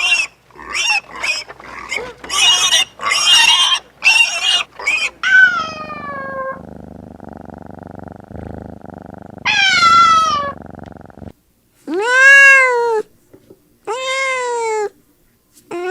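Kittens meowing. A quick run of short mews comes first, then a few longer separate meows, each falling or arching in pitch.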